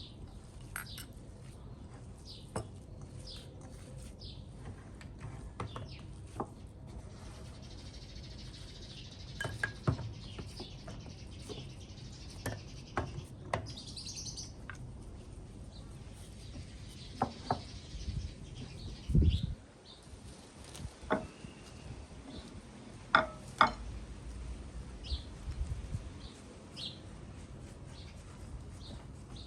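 Small birds chirping in short, scattered calls, among clicks and knocks of handling. The loudest are a dull thump a little past the middle and two sharp knocks soon after.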